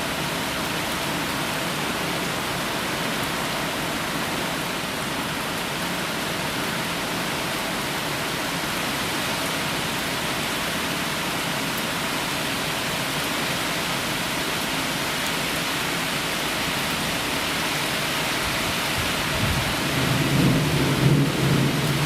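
Heavy rain falling steadily in a thunderstorm, with a low rumble of thunder rolling in near the end.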